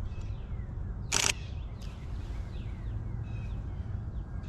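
A DSLR camera shutter fires in one short, sharp burst about a second in. Faint, short falling bird chirps are heard around it over a steady low rumble.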